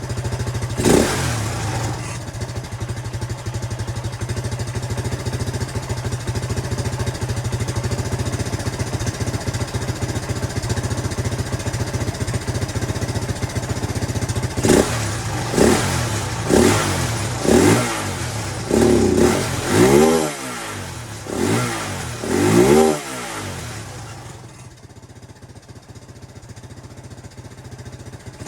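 Jianshe JS200GY 200cc air-cooled four-stroke dirt-bike engine idling steadily. About halfway through it is blipped on the throttle in a string of about eight quick revs, then the sound drops much quieter near the end.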